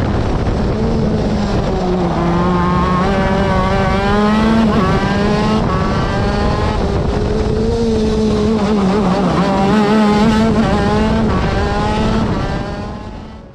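TM Racing 125 cc two-stroke shifter kart engine running hard on track, its note rising and dipping in pitch again and again, then fading out near the end.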